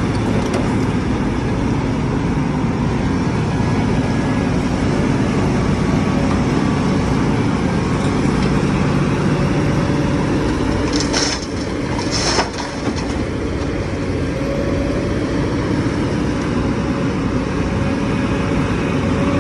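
A heavy diesel excavator engine running steadily, with two short hisses a little past the middle.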